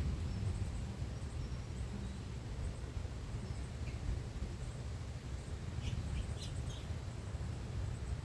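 Small songbirds giving short, high chirps over a steady low background rumble, with a quick cluster of chirps about six seconds in.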